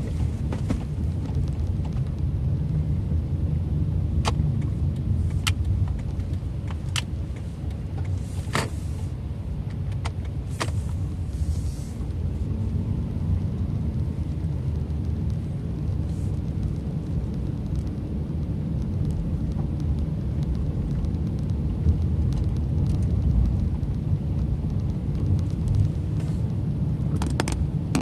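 Steady low road and engine rumble of a moving car, heard from inside the cabin. A few sharp clicks sound in the first half, along with two brief hisses about 8 and 12 seconds in.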